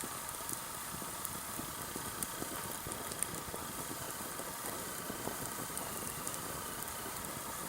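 Sawtooth oak firewood burning in an open campfire: a steady hiss with frequent small, irregular crackles and pops.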